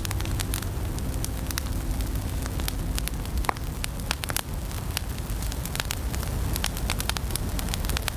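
Wood fire crackling in a fireplace: dense, irregular snaps and pops over a low, steady rumble.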